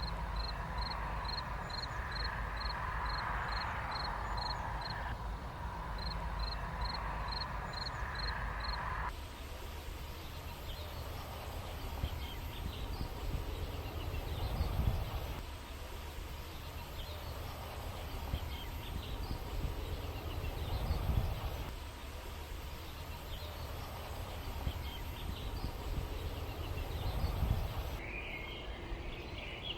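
Countryside ambience: small birds chirping over a steady low rumble. In the first several seconds there are two quick runs of evenly spaced high notes, about three a second.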